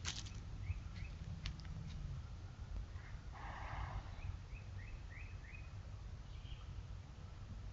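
A small bird chirping: a couple of short rising chirps about a second in, then a quick run of five about halfway through, over a steady low rumble.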